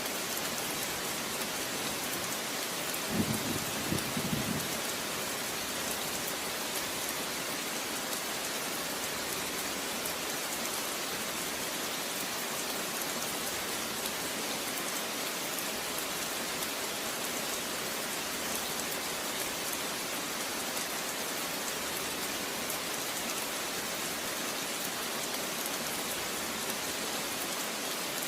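Steady rain falling, a dense even hiss of drops. A brief low rumble comes about three seconds in.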